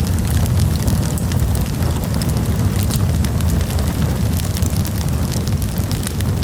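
Campfire burning with a steady low rumble of flames and frequent sharp crackles and pops.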